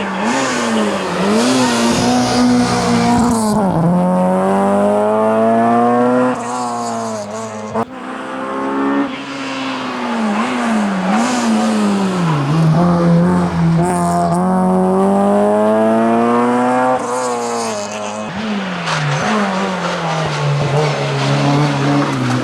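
Honda Civic rally car driven hard on an asphalt stage: its engine revs rise through the gears and drop sharply on the lifts and shifts between them. About three-quarters of the way in, a Renault Clio RS rally car takes over, its engine also at high revs.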